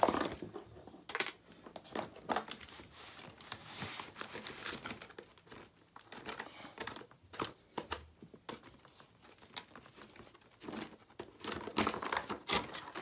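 Plastic and cardboard packaging crinkling and rustling in irregular bursts, with scattered clicks and knocks, as a toy car is taken out of its box.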